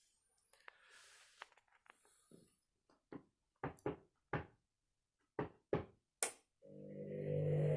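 Candy 7kg Smart Touch washing machine weighing a small load: a string of short, sharp knocks and pulses from the drum, then, about a second before the end, the drum motor starts running with a steady hum that builds up.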